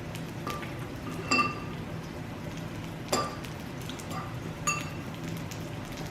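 Utensils clinking against dishes a few times, each clink ringing briefly, the loudest about a second and a half in, over the steady sizzle of pork belly frying on a tabletop grill.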